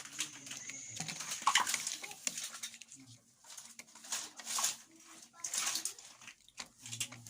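Toy vehicles being handled, with repeated rustling and scraping, and a voice making wordless low sounds.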